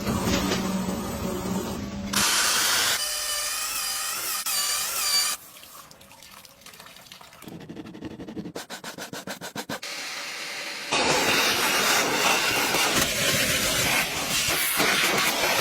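Short car-cleaning sounds cut one after another: water spraying and rushing. A wavering pitched squeak comes a few seconds in, then a quieter stretch with rapid even clicking, before a loud steady spray takes over for the last few seconds.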